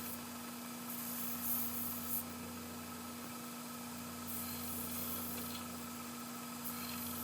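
Rasping strokes of hand deburring on a freshly cut brass gear, a few strokes of about a second each, over a steady machine hum.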